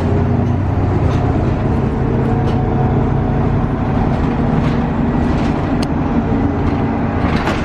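A bus running: a loud, steady engine rumble with a low hum, starting and stopping abruptly at cuts.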